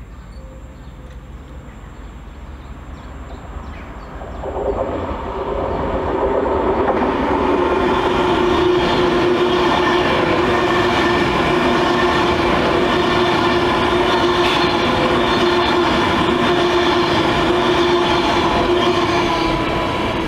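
A Class 390 Pendolino electric train approaches and passes at speed. The sound builds over the first few seconds, jumps up sharply as the train reaches the microphone, then holds a loud steady rush of wheels on rail with a hum of several steady tones for about fifteen seconds. It eases off near the end as the last car goes by.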